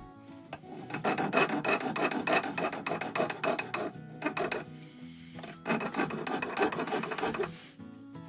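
Hand file rasping back and forth on brazed metal built up on a motorcycle speedometer drive, to shape it into a peg. It comes in two runs of quick strokes with a pause of about a second and a half between them.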